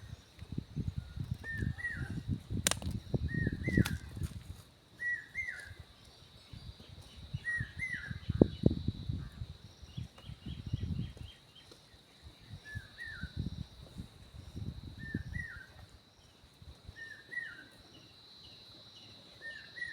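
A bird repeats a short two-note chirp over and over at irregular intervals, over a steady high whine. Irregular low thumps and rustling come and go through the first three quarters.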